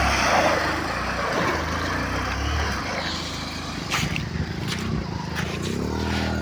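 A motor vehicle running, with a low steady engine note under road noise and a few sharp knocks about four to five seconds in.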